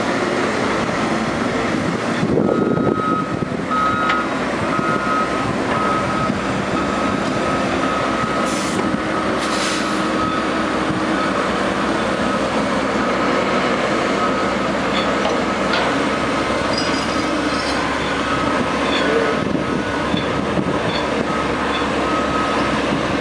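Heavy oilfield truck's diesel engine running steadily under load, with a backup alarm beeping in repeated short tones from about two seconds in until near the end.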